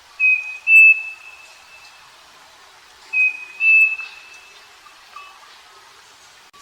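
Striped cuckoo (saci) singing its two-note whistled song twice: a short clear whistle followed by a longer, slightly higher one. Fainter short notes from another bird sound lower down.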